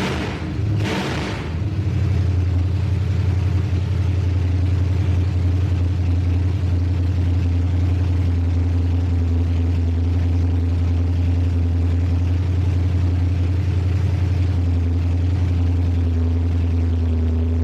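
Pickup truck engine idling steadily, running smoothly just after being reassembled. One or two brief rushing sounds come in the first second or so.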